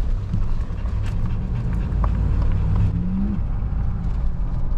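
Steady low road and engine rumble inside a moving car, with a dog in the car giving a short rising whine near the middle.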